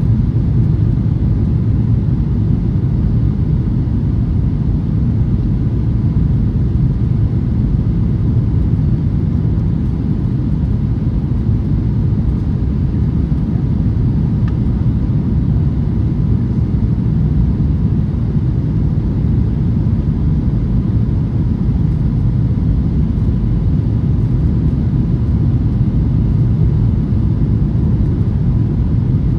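Steady low rumble inside a Boeing 737-800's cabin from its CFM56 engines and the airflow past the fuselage, even throughout with no thumps or surges.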